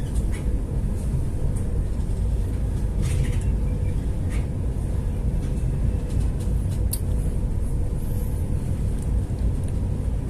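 Steady low rumble of a ship underway with a faint constant hum, heard on board; a few brief sharp knocks or creaks sound about three, four and a half and seven seconds in.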